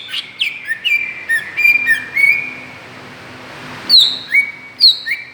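Greater green leafbird (cucak ijo) song: a quick run of clear, loud whistled notes, many sliding down in pitch. The song stops for about a second and a half, then starts again near the end with a few more falling whistles.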